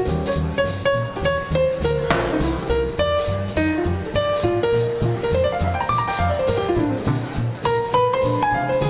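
Live small-group swing band playing an instrumental: a walking bass line and drums under a melody, with a cymbal crash about two seconds in. Midway, a run of notes climbs in even steps and then comes back down.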